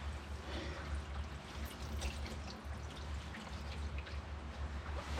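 Hot engine oil pouring in a steady stream from the open drain hole of a Ford F-150 3.5 EcoBoost's oil pan, partly missing the drain pan and splashing onto the floor.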